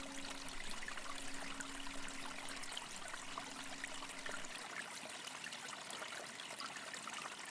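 Faint trickling stream of water. The last ring of a singing bowl fades out under it within the first few seconds.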